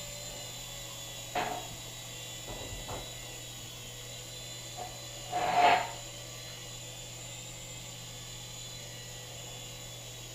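Micro indoor RC helicopter's small electric motors and rotors running with a steady whine and hum in flight. A few short, louder sounds break in, the strongest a little after halfway.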